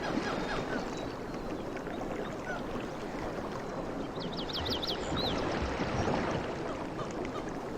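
Sea waves washing steadily on the shore. A short run of quick, high chirps cuts in about four seconds in.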